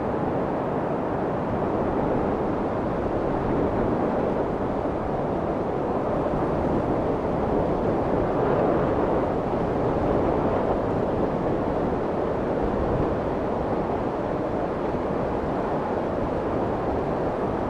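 Steady white noise for soothing a crying baby: an even, unbroken shushing hiss weighted toward the low and middle range, with the highs rolled off so it sounds soft and muffled, meant to imitate the sound of the womb.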